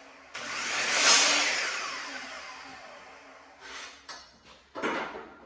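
Electric saw motor started briefly, running up to speed and then spinning down with a falling whine over a few seconds. A few short knocks and rustles follow near the end.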